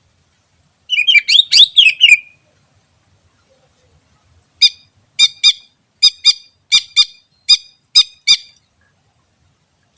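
Green leafbird (cucak ijo) calling: a quick, harsh chattering phrase, then after a pause about ten short, sharp notes, some in quick pairs.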